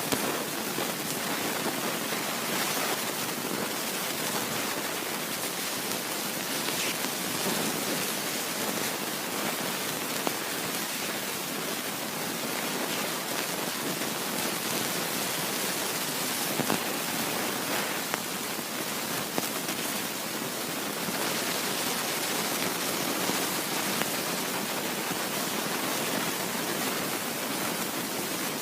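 Steady rushing hiss of a moving train, with a few faint clicks.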